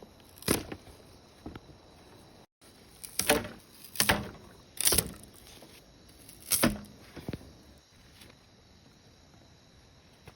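A series of about six sharp knocks at irregular intervals, the strongest in the middle of the stretch.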